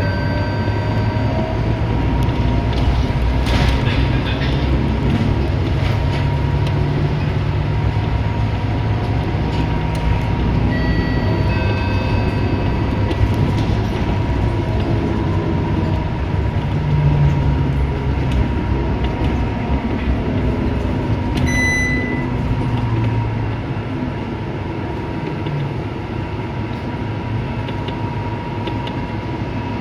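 Scania K230UB bus heard from inside while it is moving: a steady engine and road drone. A few short electronic tones sound three times, and the drone eases off a little about three-quarters of the way through.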